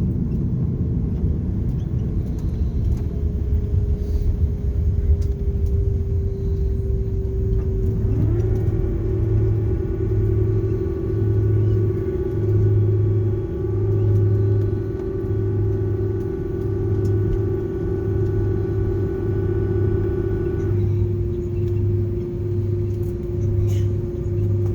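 Airbus A330-300 cabin noise while taxiing after landing: a low rumble with a regular pulse a little over once a second. About a third of the way in, a whine rises quickly and then holds steady; it drops back and thins near the end.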